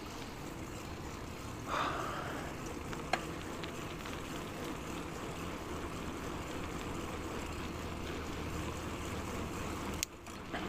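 Steady rushing noise of a bicycle being ridden: wind over the clip-on microphone and tyres rolling on pavement, with one sharp click about three seconds in.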